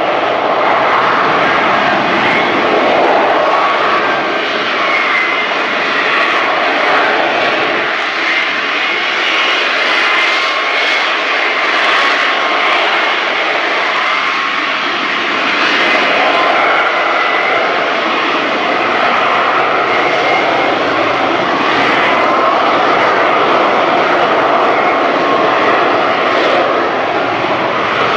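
Lockheed Martin F-35B Lightning II's Pratt & Whitney F135 jet engine running at high power, a loud, continuous roar with a wavering whine, as the jet holds its slow lift-fan (STOVL) flight.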